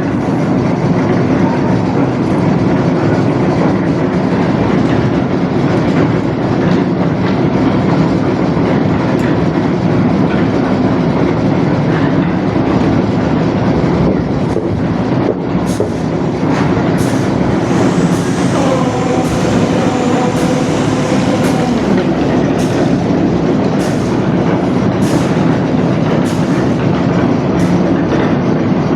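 Concrete mixer machine running steadily, its drum churning with a continuous rattle and scattered sharp knocks.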